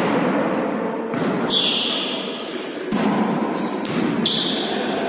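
A volleyball being struck and bouncing on an indoor court, with several sharp smacks about a second apart. Between the hits, sneakers squeak on the court floor.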